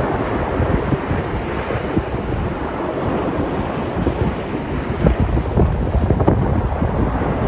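Mediterranean sea surf: waves breaking and washing in a continuous steady rush. Wind buffets the microphone with a low rumble.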